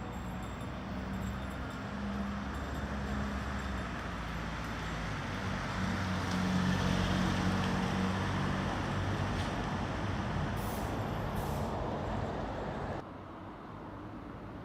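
The 1992 Mitsubishi Minicab's 657cc inline-three engine running, getting louder about six seconds in. The sound drops off suddenly near the end.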